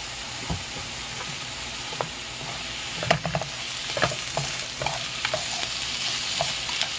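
Salted watermelon-rind strips and minced garlic sizzling in oil in a frying pan as they are stirred with bamboo chopsticks, with scattered light clicks of the chopsticks against the pan. The sizzle grows fuller from about three seconds in.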